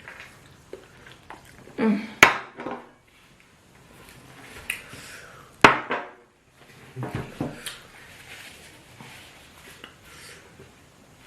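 Dishes and tableware knocking and clinking during a meal: two sharp clinks about two and five and a half seconds in, with softer scattered eating and handling noises between.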